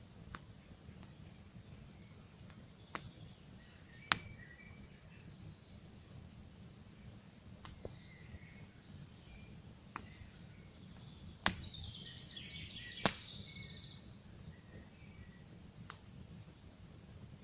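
Wood campfire crackling, with sharp single pops every second or two over a low steady rumble of burning, while small birds chirp repeatedly and break into a fast trill twice.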